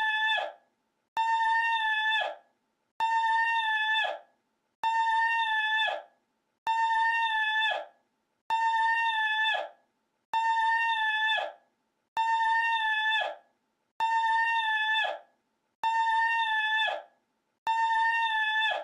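A short, high-pitched vocal cry held on one steady pitch for about a second, then cut off sharply. The identical cry is looped roughly every two seconds, about ten times over.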